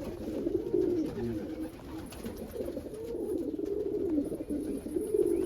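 Several domestic pigeons cooing at once, their low, rolling coos overlapping continuously.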